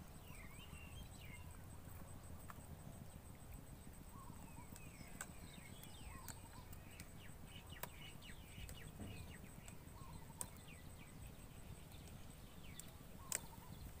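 Faint, scattered chirps and short up-and-down calls of small birds, with about four sharp clicks standing out as the loudest sounds, over a low steady rumble.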